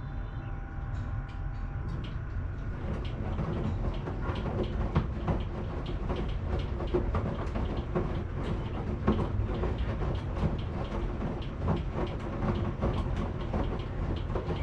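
Washing machine running: a steady low rumble with a faint whine in the first few seconds, then a dense, irregular clatter of knocks from about three seconds in.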